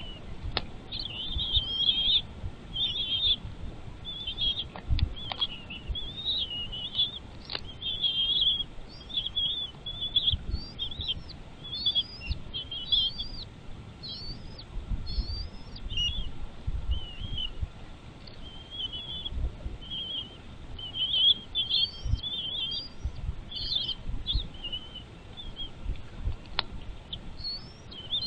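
Birds chirping almost without pause: a dense string of short, high chirps and chattering calls with quick up-and-down notes, over low rumbling.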